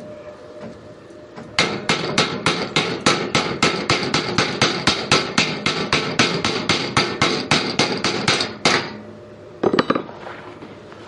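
Hammer striking thin steel tubing in a rapid, even run of blows, about four a second for some seven seconds, then a quick pair of strikes near the end.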